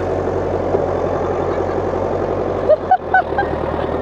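International 785 tractor's diesel engine running steadily. About three seconds in come a few short high-pitched gliding sounds.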